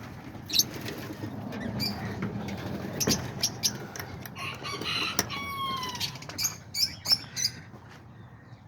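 Small parrots (parakeets, lovebirds and cockatiels) chirping and squawking in many short, sharp calls, with one falling whistled call about five seconds in, over a low rustle.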